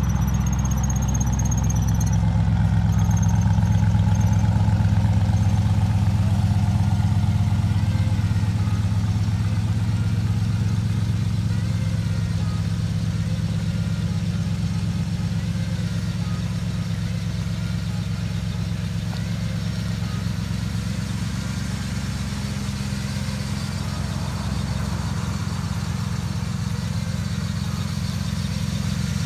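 Carbureted engine of a 1979 Ford F-150 idling steadily, with an even, unchanging low rumble.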